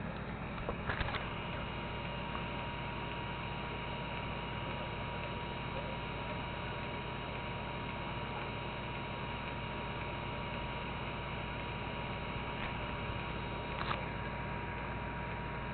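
Steady electrical hum with a thin steady whine from a 3D printer's electronics and fans, broken by a few light clicks about a second in and again near the end as the 3DTouch probe's pin deploys and retracts during its self-test.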